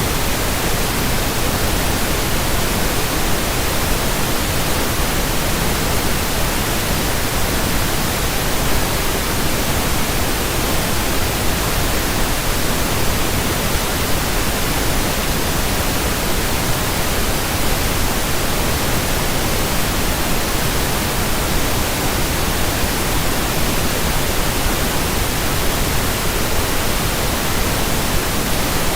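Steady pink noise: an even, unchanging hiss across the whole range, with no tones or events.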